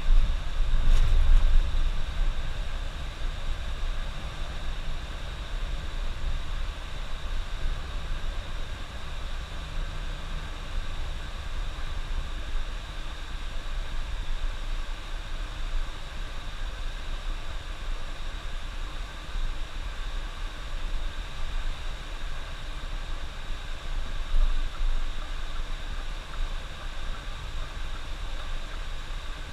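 Steady running noise inside a moving bus: low engine and road rumble with an even hiss over it. The rumble is a little louder for the first second or two.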